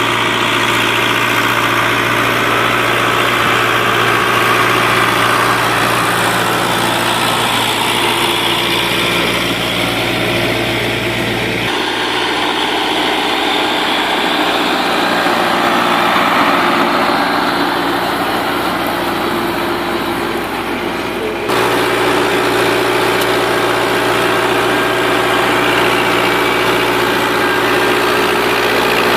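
Rakovica 65 tractor's diesel engine running steadily while pulling a plough for shallow stubble ploughing. The sound changes abruptly twice, about twelve and about twenty-one seconds in.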